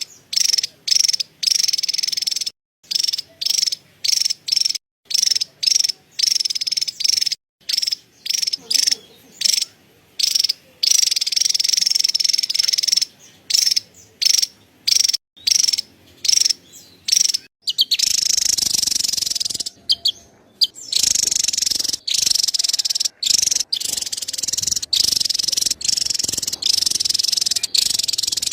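Javan tesia chattering: harsh, very rapid rattling calls, high-pitched, in short bursts with brief gaps, running almost without a break in the last third.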